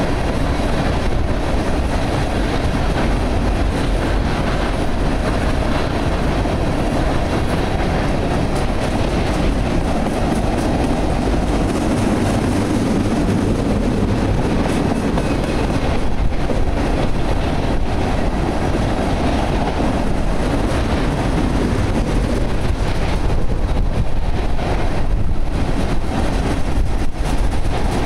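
Freight train of crude-oil tank cars rolling past: a steady rumble and rattle of steel wheels on rail, with occasional clicks over rail joints.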